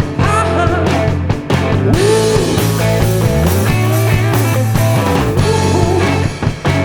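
Rock band playing live: bass and drums under an electric guitar fill with bent, sliding notes, an instrumental break between sung lines of the song.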